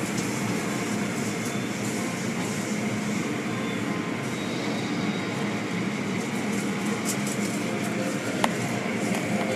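Automatic car wash machinery running: a steady, even mechanical rumble and hiss, with one sharp click near the end.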